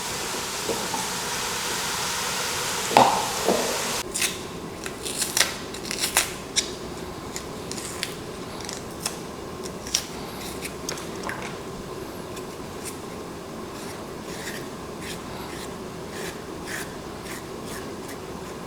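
Flour dough being kneaded by hand, with rubbing and scraping and many short taps and slaps. A steady sizzling hiss from frying meat stops suddenly about four seconds in.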